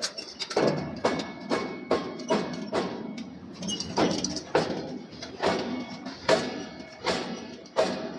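Regular hammer blows on hot steel during forging, about two strikes a second, each with a short ring.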